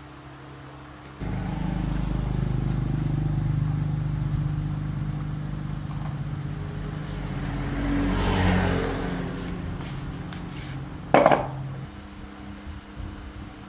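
A steady electrical machine hum that switches on suddenly about a second in and cuts off near the end, with a short, loud crackle shortly before it stops.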